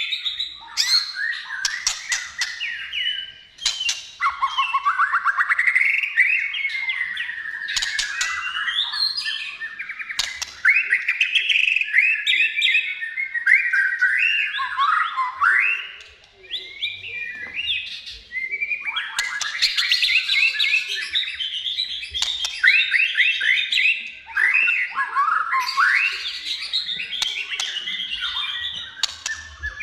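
White-rumped shama (murai batu) singing without a break: a fast, varied run of whistled phrases, rapid trills and rising and falling glides, mixed with sharp clicking notes.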